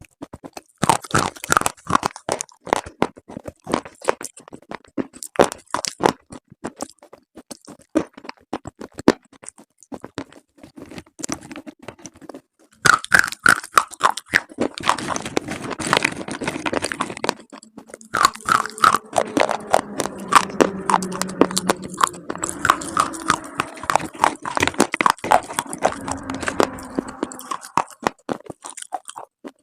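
Close-up crunching and chewing of slate and chalk pieces: many sharp cracks in quick succession, a short lull about twelve seconds in, then a denser, continuous stretch of crunching.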